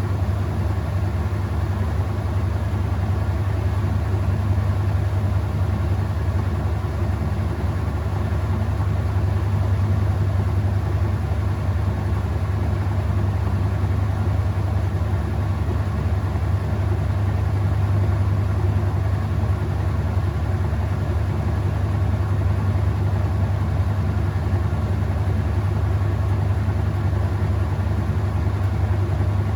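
Whirlpool top-load washing machine running, a steady low motor hum with an even whirring noise that holds unchanged throughout.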